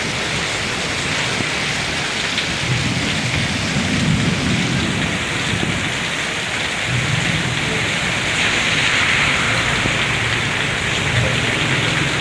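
Heavy rain pouring steadily, with a low rumble swelling a few seconds in and again from about seven seconds on.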